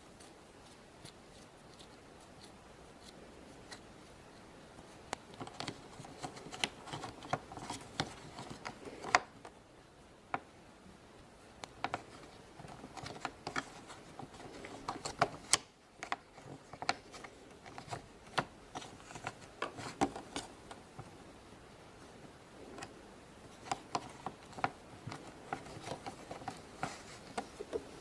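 Hands working Play-Doh and a plastic popsicle mold: scattered light clicks, taps and rubbing, starting about five seconds in.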